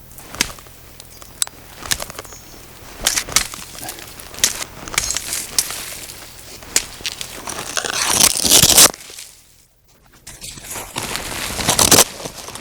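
Ice-coated saplings and branches being handled and bent: a string of sharp cracks and snaps over crackling, rustling wood and ice, loudest about eight to nine seconds in, then a brief hush.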